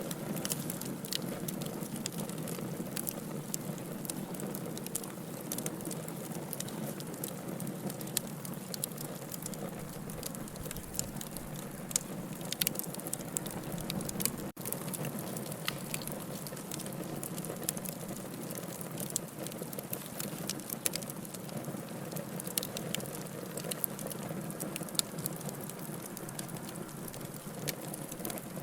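Wood fire burning in a fireplace: a steady low rush of flames with frequent sharp crackles and pops at irregular intervals, and a momentary drop-out about halfway through.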